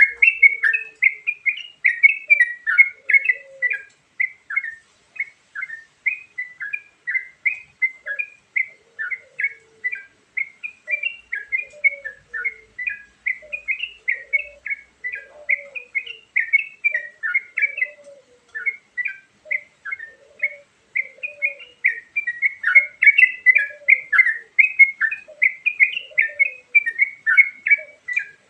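Yellow-vented bulbul (trucukan) singing a rapid, continuous chattering song of bubbly notes, with fainter, lower short notes underneath. This is a lure recording for trapping.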